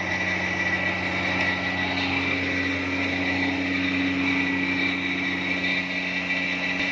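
Epiroc DM45 drill rig running steadily: a constant engine drone with a steady high whine above it.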